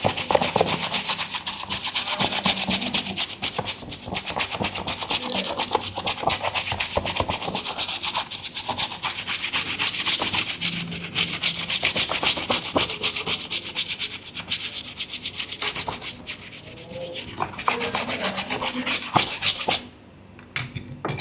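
A brush scrubbing a sneaker in rapid, even back-and-forth strokes, a dense scratchy rubbing that stops about a second before the end.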